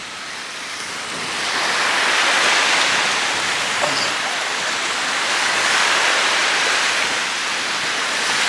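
Ocean surf rushing on the beach, swelling louder about a second and a half in, easing a little, then building again near the end.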